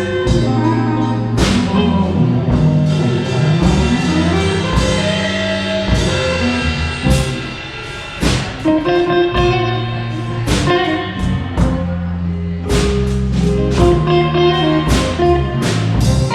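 Live blues band playing a slow blues instrumental break: bending lead lines over electric bass and a drum kit with frequent cymbal hits.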